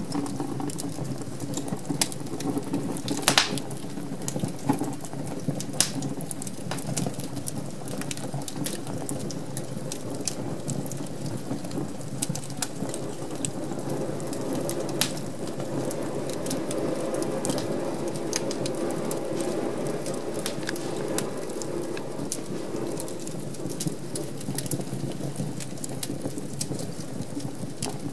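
Wood fire crackling in an open fireplace: irregular sharp pops and snaps over the steady low rush of the flames.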